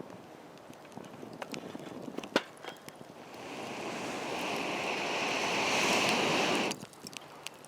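Wood campfire crackling with sharp pops, then from about three seconds in a rushing hiss swells up and cuts off abruptly near the end.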